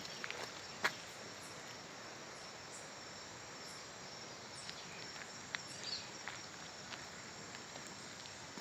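Insects chirring steadily at one high pitch, with a few faint scattered clicks.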